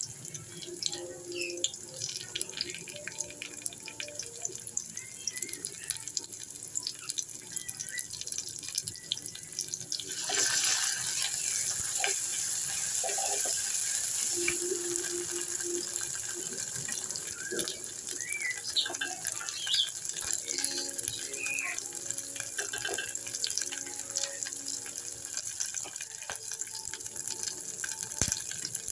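Sliced onions sizzling in hot oil in an aluminium pot, with a spatula scraping and clicking against the pot as they are stirred. The sizzle grows louder about ten seconds in.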